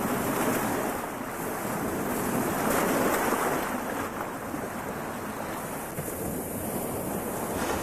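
Steady rushing water noise, like waves washing, swelling about three seconds in and easing off toward the end.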